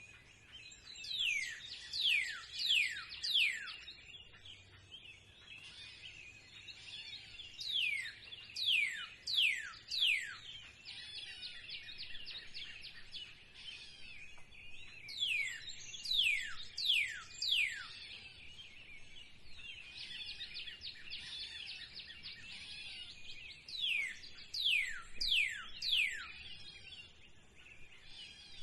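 Spring birdsong chorus. One bird repeatedly sings a series of four or five sharp, steeply falling whistles, a new series every seven or eight seconds, over steady twittering and chirping from other birds.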